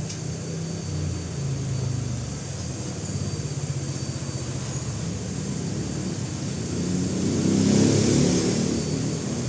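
A motor vehicle engine running with a steady low rumble, swelling louder with a rush of hiss about seven to eight seconds in, then easing.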